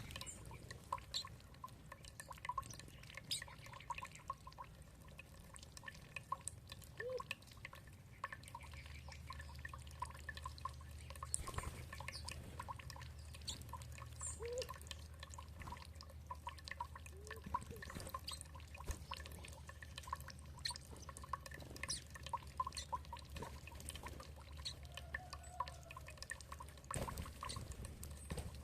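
Water dripping and trickling in many quick, irregular drops, with a few short bird chirps scattered through.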